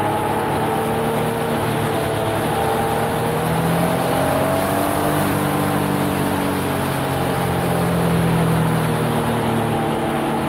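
Yamaha XSR900's three-cylinder engine at track speed, its revs rising and falling as the bike is ridden through corners, over a steady rush of wind noise.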